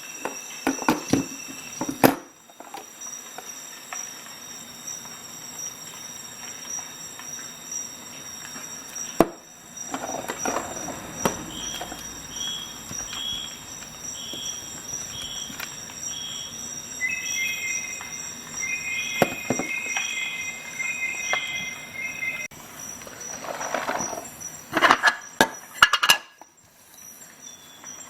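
Clicks and light metallic clinks of a Swiss Army knife's tools being handled, loudest in a flurry near the end. A series of short beeping tones sounds through the middle.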